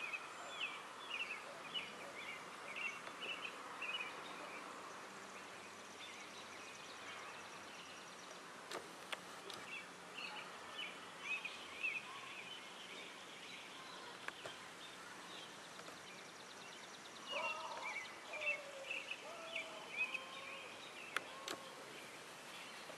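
Faint evening outdoor background with birds chirping in short repeated notes. Lower sliding calls join in for the last few seconds, along with a few faint clicks.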